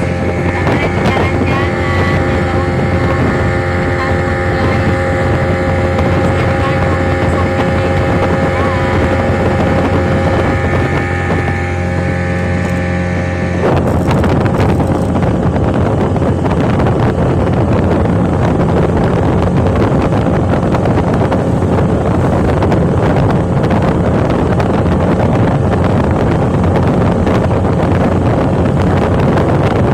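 A vehicle's engine running steadily while under way. About fourteen seconds in, the steady engine tone gives way to a louder, even rushing noise, like wind and water passing.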